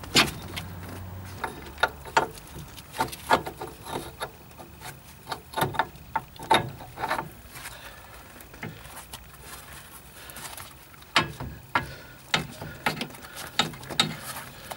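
Irregular metallic clicks and knocks from a car's front drive shaft being refitted into a wheel hub and the tools handled around it.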